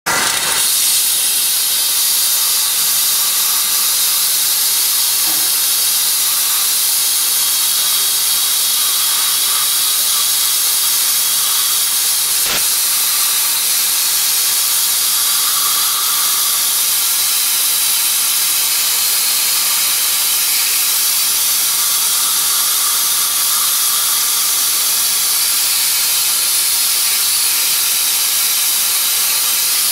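IBIX 9 abrasive blaster spraying 80-mesh garnet grit through a 4 mm nozzle: a steady, loud hiss of the air-and-grit jet. A single brief click about twelve seconds in.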